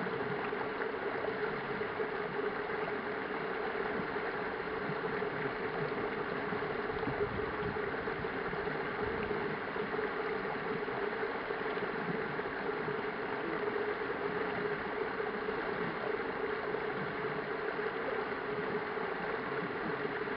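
Steady rush of flowing stream water, unchanging throughout, with a steady hum running under it.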